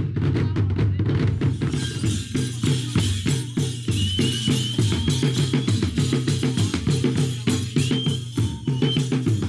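Music carried by fast, steady drumming with hand percussion, the drum strokes coming several times a second, and a few high held notes over it from about halfway through.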